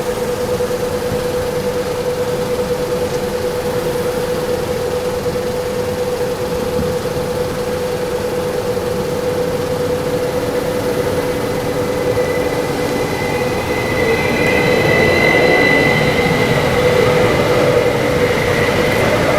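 Train running along the track, with a steady whine and a rumble throughout. About twelve seconds in, a higher whine joins it and the whole sound grows louder.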